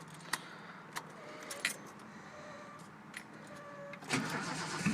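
Keys jangling and a few clicks as the ignition is readied on a 1977 Datsun 280Z, then the starter cranking about four seconds in, with the straight-piped 2.8-litre inline-six just catching at the very end.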